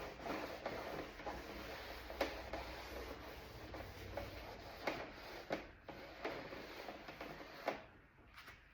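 Hand scrubbing and scuffing of a door panel: irregular rubbing strokes with light clicks and knocks, easing off near the end.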